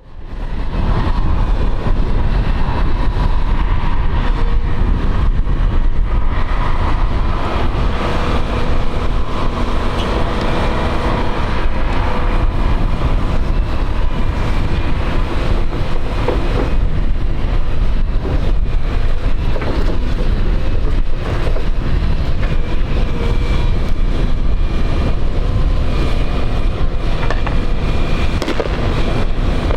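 Jet engines of an Airbus A319neo airliner running, a steady loud rumble with faint whining tones over it.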